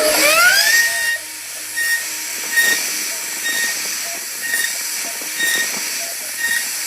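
CNC router spindle whining up to speed, then running with a steady high whine over a hiss of cutting. The whine breaks off and returns about once a second as the bit works the wood.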